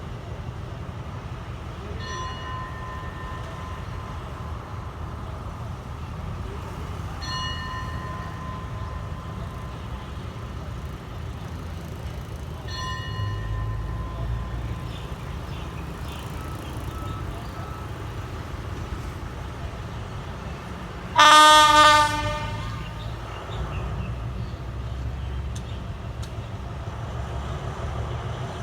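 Steady low rumble of a running passenger train. A loud horn blast of under a second comes about three quarters of the way through, and three faint short tones sound about five seconds apart in the first half.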